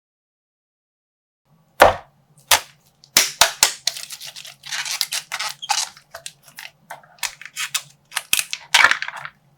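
A plastic slime bag bursting with a sharp pop about two seconds in, then another pop, followed by irregular crackling and crinkling as the plastic is torn open.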